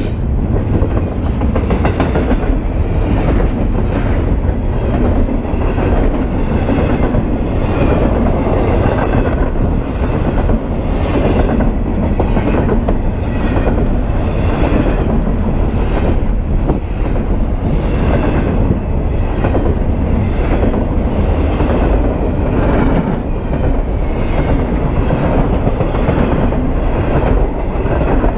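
BNSF double-stack intermodal train's well cars rolling past close by: a steady loud rumble of steel wheels on rail with a regularly repeating clatter as the trucks pass.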